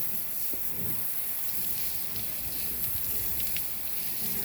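Water running steadily onto a black steel pipe, rinsing off paint and epoxy remover from the stripped section.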